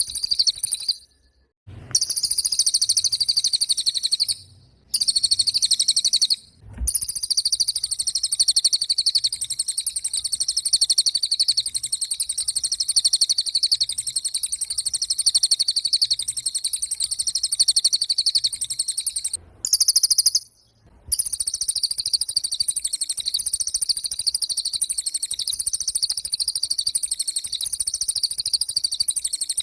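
Cililin bird singing in full voice: a long, very rapid, high-pitched trill of evenly repeated notes, broken by a few short pauses.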